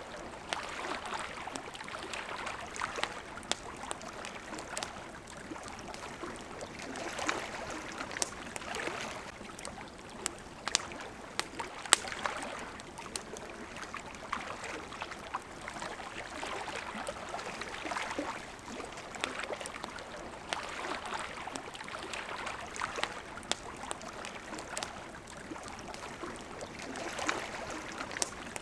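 Water washing gently against a shore in slow swells every few seconds, with a campfire crackling through it in scattered sharp pops, one louder about twelve seconds in.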